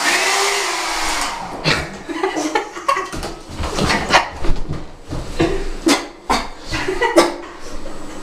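Hair dryer switched on and blowing for about a second, then cut off. It is followed by a string of short knocks and brief voice sounds.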